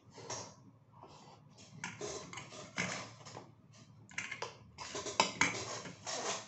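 Close-up chewing and lip-smacking of a mouthful of rice and sardines, a quick irregular run of wet clicks and smacks.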